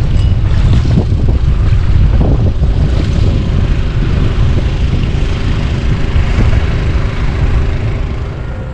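Wind buffeting the microphone, a loud, uneven rumble that eases off near the end.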